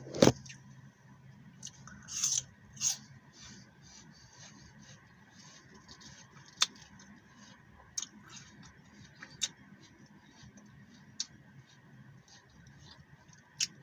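Crisp green apple being chewed close to the microphone: a sharp crunch at the very start, softer crunches about two to three seconds in, then scattered small mouth clicks.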